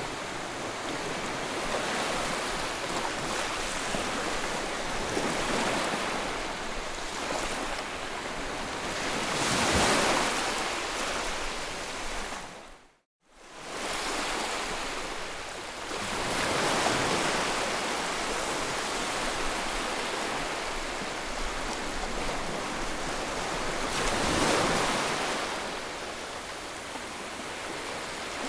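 Ocean waves washing onto a shore: a steady rush of surf that swells louder with each wave roughly every seven seconds. About halfway through, the sound cuts out completely for a moment and fades back in.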